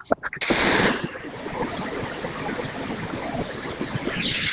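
Water spray gun washing an air conditioner's heat exchanger: two loud hissing bursts of spray, about half a second in and near the end, with steady splashing water between them.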